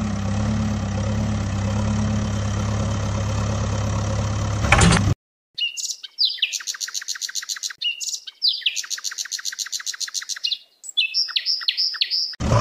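A motor vehicle engine idling steadily, cutting off about five seconds in. Then a bird sings rapid, high trills in several phrases, each starting with a quick falling note.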